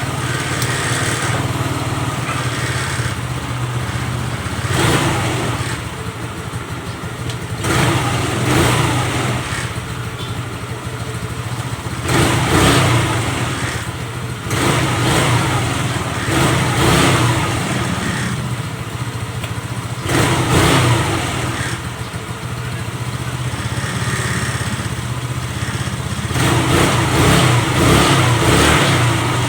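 Motorcycle engine running, idling steadily, with the throttle blipped about nine times in a row into short revs; the bike that would not start is now running.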